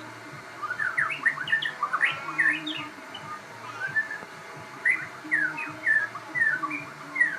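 Crossbred white-rumped shama (murai) singing, a rapid run of sweeping whistled notes in two bursts of song.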